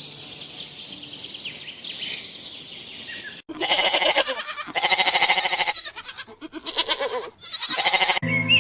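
A goat bleating: four loud, wavering bleats in a row, starting about three and a half seconds in, after some faint high chirping.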